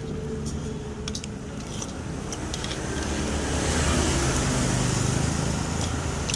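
A passing road vehicle: a steady low rumble with a hiss that swells about halfway through and eases off near the end.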